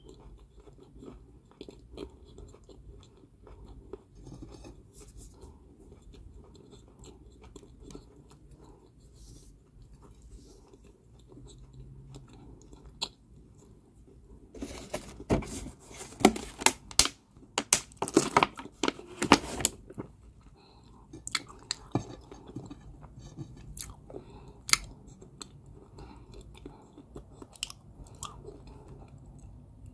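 Someone chewing crunchy balls of Georgia White kaolin clay. The first half is softer chewing with small clicks, then comes a run of loud, sharp crunches lasting several seconds, before it settles back into chewing with scattered crunches.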